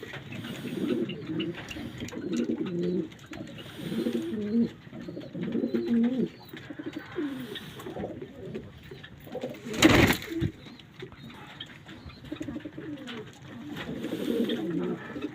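Domestic pigeons cooing in repeated low, warbling bouts, with one loud, brief burst of noise about ten seconds in.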